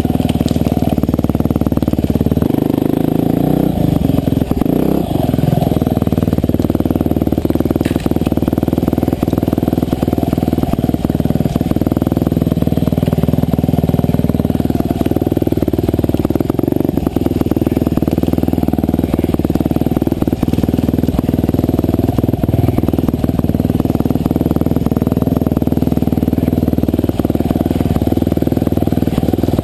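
Husqvarna TE511 single-cylinder four-stroke dirt bike engine running continuously on a trail, its pitch rising and falling as the throttle is worked, with scattered short knocks and clatter.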